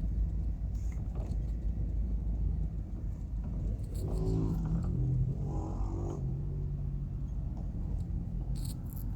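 Steady low road rumble of a car driving, heard from inside the cabin, with a brief pitched, wavering sound from about four to six seconds in.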